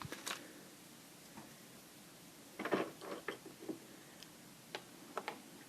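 A small toy figure being handled and set down: a scatter of light clicks and taps, with a short busier cluster of clicks and rustling about three seconds in and a few sharp clicks near the end.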